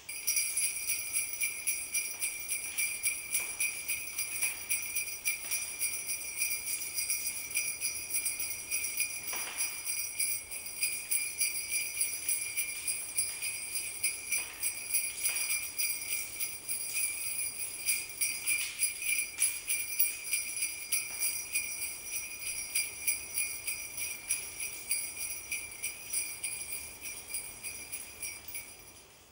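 Bells jingling, shaken continuously in a rapid, even rhythm. They start abruptly and fade out near the end.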